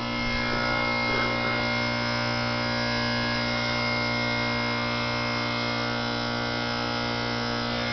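2004 Goodman 3.5-ton heat pump's Copeland reciprocating compressor running steadily in defrost mode, a constant low hum with many steady overtones. It has gone into defrost after under three minutes of heating, which the owner puts down to low refrigerant.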